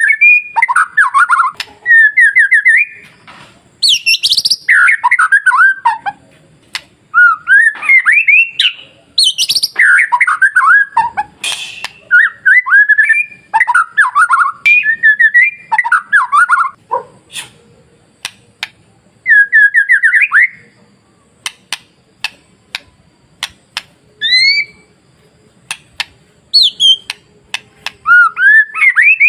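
White-rumped shama (murai batu) singing: short bursts of rapid, gliding whistled notes with brief pauses between phrases, and a run of sharp clicks in the second half.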